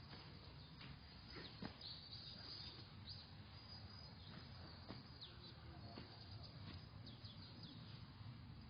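Faint outdoor ambience with scattered short, high bird chirps and a few soft clicks.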